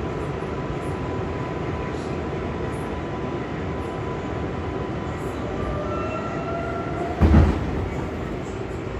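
R142A subway car's running noise: a steady rumble with a faint whine. Short rising tones come in near the end, then a sudden heavy thump about seven seconds in.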